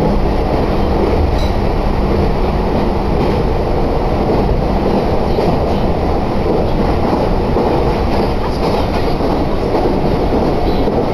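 Meitetsu electric commuter train running between stations, heard from inside the car: a steady, loud rumble of wheels on the rails.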